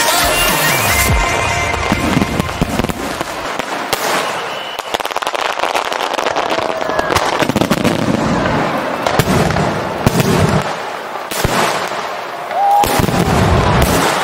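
Aerial fireworks display bursting and crackling, with several loud volleys of bangs. Music fades out in the first second or so.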